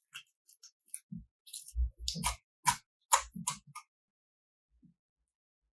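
Slime being handled: irregular small clicks and soft low taps, stopping about four seconds in.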